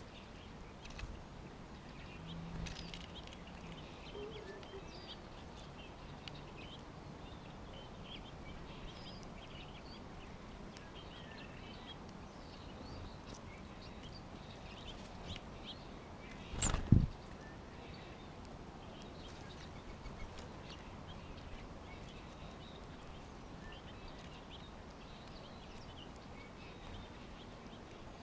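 Small songbirds chirping and calling around a backyard feeder, in short scattered notes. About two thirds of the way through comes a single loud thump or knock.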